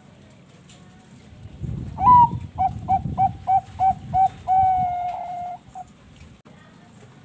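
Zebra dove (Bangkok-type perkutut) cooing: a higher opening note, a quick run of about seven short notes, then one long held note and a last short note, about four seconds in all.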